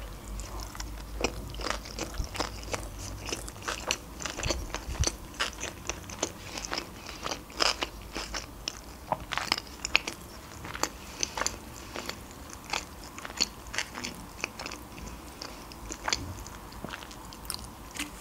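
Close-miked chewing of a mouthful of Philadelphia sushi roll: irregular wet clicks and smacks of the mouth, several every second.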